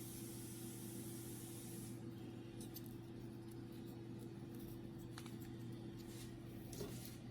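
Faint clicks and light rubbing of plastic printer parts and wiring being handled and fitted, a few separate ticks in the second half, over a steady low hum; a soft hiss runs for the first two seconds and then stops.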